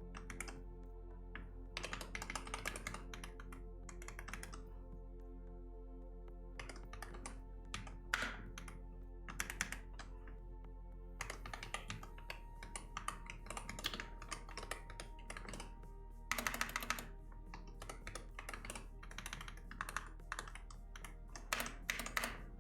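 Typing on a computer keyboard in bursts of rapid keystrokes with short pauses between them, over background music.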